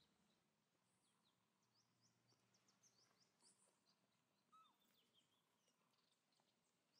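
Near silence with faint high bird chirps: a quick run of short chirps in the first half and one brief lower call about four and a half seconds in.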